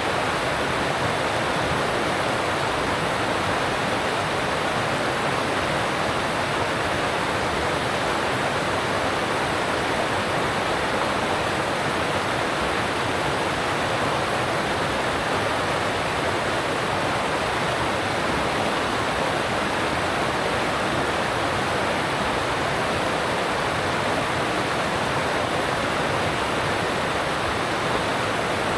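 Alpine mountain stream rushing past, a steady, even rush of water with no breaks.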